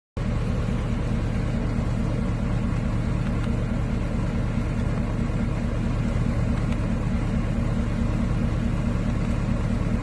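A vehicle engine running steadily at idle, with a fast, even low pulse.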